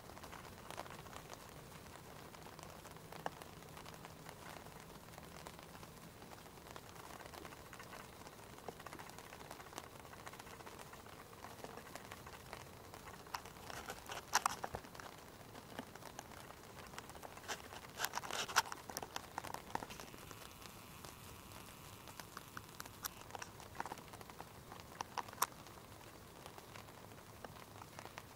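Small campfire crackling: a faint steady hiss with scattered ticks and pops, and a few denser bursts of crackles about halfway through and again later.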